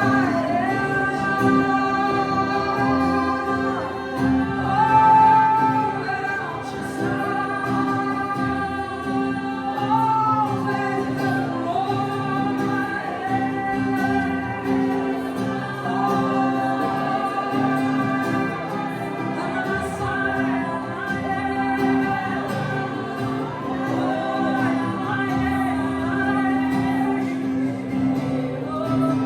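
Spontaneous congregational worship singing: several voices singing freely, gliding and overlapping, over a steady held chord.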